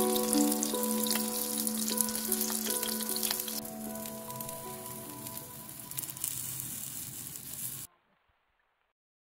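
Flour-and-egg-coated chicken breast cutlets sizzling in oil in a frying pan, a steady hiss with many small pops that thins out after a few seconds. The sound cuts off suddenly near the end.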